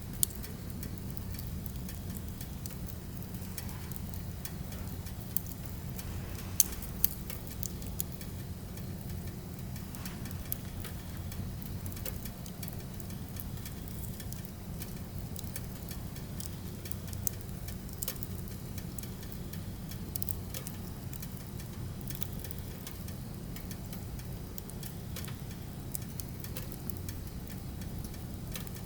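Firewood burning, crackling with scattered sharp pops over a steady low rumble; a handful of louder pops stand out, near the start and around a quarter of the way in.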